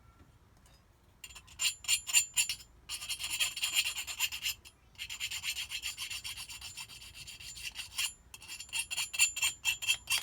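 Hand file rasping back and forth on the metal edges of a Kawasaki JS800 jet-pump impeller's fins, taking off burrs left by debris damage. After about a second of quiet come quick short strokes, then longer runs of fast strokes broken by two brief pauses, and short strokes again near the end.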